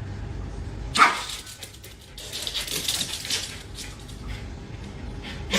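A dog barks once, sharply, about a second in. A few seconds of rustling, scratchy noise follow.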